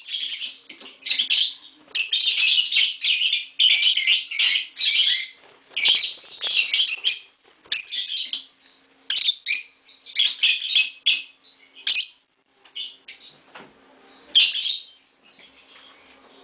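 Pet lovebirds chirping in rapid, shrill bursts of chatter. The bursts thin out after about twelve seconds, with one more loud burst near the end.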